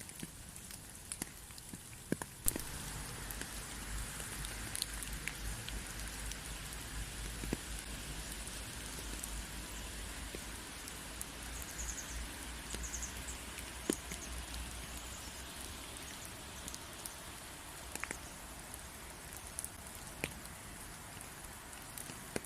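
Rain falling steadily, with scattered individual drops ticking. The rain grows heavier with a low rumble about two seconds in, then eases off gradually.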